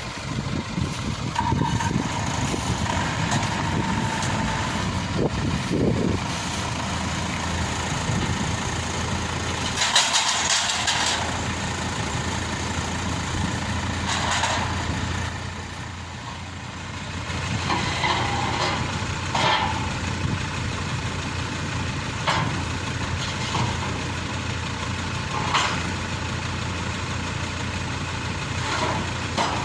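Maxxi Bimo Xtreme combine harvester engine running steadily at low revs, with a few short clanks and knocks scattered through it.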